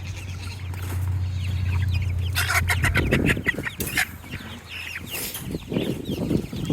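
Meat chickens peeping and clucking in a flock, with rustling and knocks from the birds being handled about two to five seconds in. A low steady hum sounds under the first three seconds.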